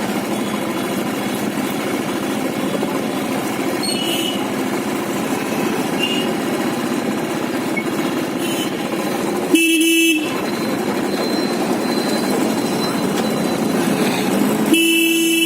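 Steady engine and road noise of a motorcycle ride, with a vehicle horn honking twice: a short beep about ten seconds in and a longer one near the end.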